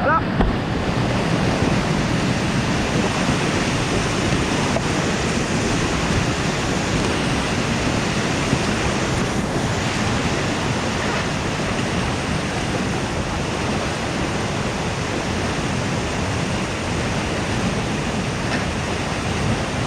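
Steady rushing of whitewater in a rocky river, an even, unbroken roar.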